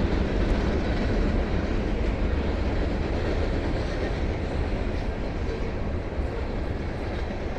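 Long freight train of container and hopper cars rolling past: a steady low rumble of wheels on rail, easing slightly toward the end.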